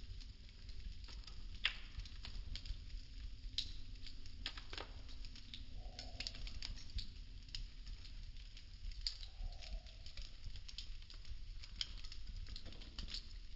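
Wooden popsicle sticks burning: dense, irregular crackling with sharper pops scattered through, over a low steady rumble.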